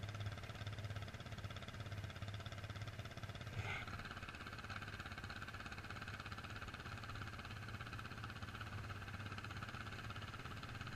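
Off-road motorcycle engine idling, a steady low pulsing hum. About three and a half seconds in there is a brief higher sound, after which a steady higher hiss joins the hum.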